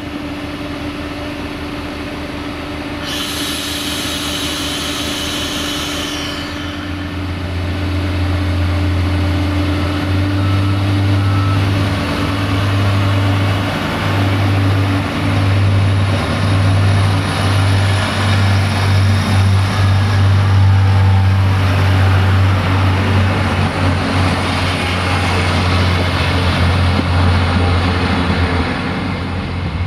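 Irish Rail diesel multiple-unit train passing close by: the steady low drone of its diesel engines, with wheel-on-rail rumble, grows louder from about seven seconds in. A hiss lasts about three seconds, starting about three seconds in.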